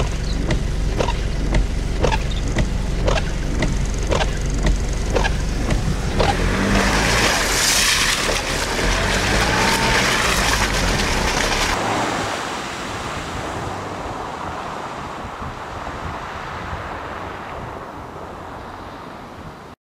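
Toyota double cab pickup driving over a snowy, muddy track, heard from inside the cab: a steady engine and tyre drone with a regular ticking about twice a second for the first six seconds or so. From about six to twelve seconds a louder hissing rush covers it, then the low drone drops away and the sound fades.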